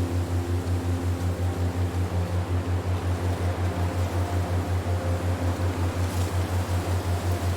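Low electronic drone tone pulsing evenly about five times a second, with faint held higher tones drifting in and out above it over a soft hiss.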